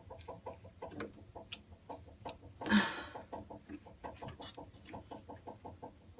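Navien water heater ticking rapidly and evenly, about six ticks a second, with one louder brief noise near the middle. The ticking is an untraced fault: the owner hears it coming from inside the unit but cannot find the part that knocks.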